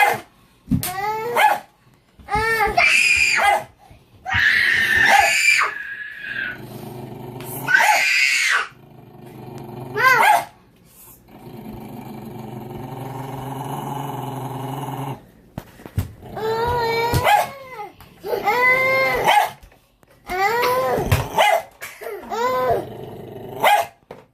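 A dog barking and growling: a string of drawn-out barks with a rising and falling pitch, and a low, steady growl lasting several seconds about halfway through.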